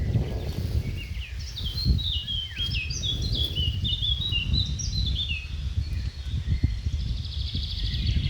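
A songbird sings a quick run of short, down-slurred whistled notes for several seconds, and a buzzy trill follows near the end. A steady low rumble runs beneath.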